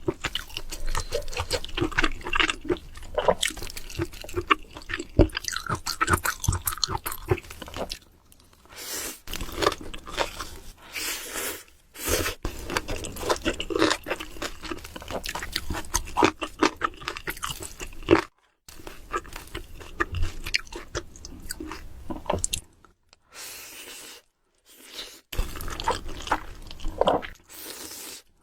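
Close-miked eating: crunching bites and chewing, in dense runs broken by several short pauses.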